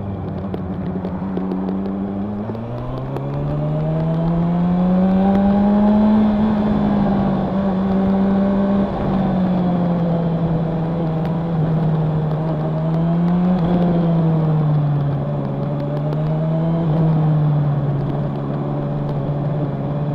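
Honda CB1000R's inline-four engine and exhaust under way, climbing in pitch as it accelerates about two seconds in, then holding and easing off. There is another short rise around the middle and a smaller one near the end before it settles back.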